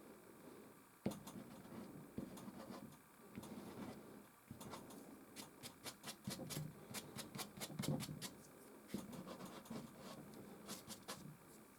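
Soft pastel stick scratching and rubbing on canvas: faint, quick strokes with bursts of light ticks, and a single sharp knock about a second in.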